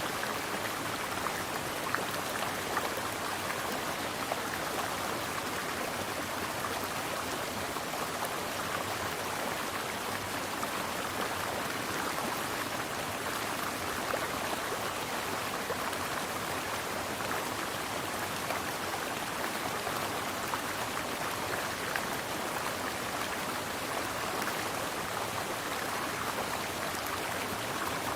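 Mountain stream flowing steadily: a continuous rush of water with fine splashing.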